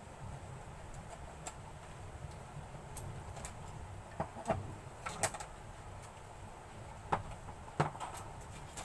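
A few sharp clicks and taps of hard plastic parts and a small hand tool being handled, as the hair dryer is worked on, over a low steady background hum.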